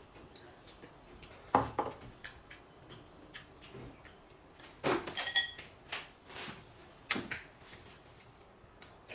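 Tableware clinking and knocking during a meal: scattered light taps and clatters, with louder knocks about one and a half seconds in and around five seconds in, one of them a short ringing clink.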